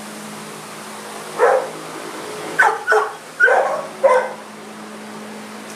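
A dog barking five times in short, separate barks.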